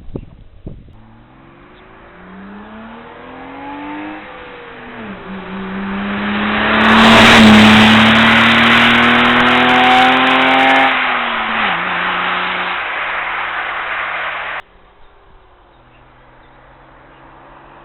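Car engine accelerating with a rising pitch, then dropping as it shifts up. It climbs again and is loudest about halfway through, then drops back. The sound cuts off abruptly near the end to a quieter, steady engine tone.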